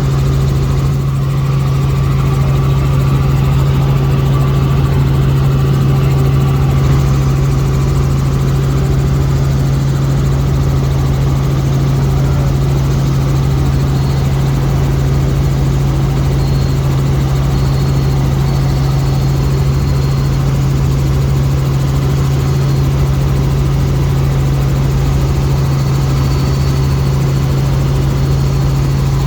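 Helicopter in flight: steady engine and rotor noise with a constant low drone.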